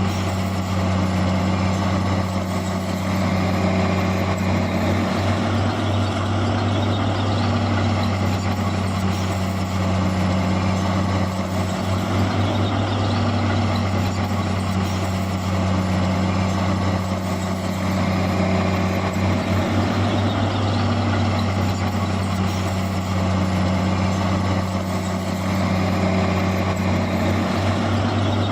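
Heavy diesel engines of earthmoving machinery running steadily, a continuous low drone.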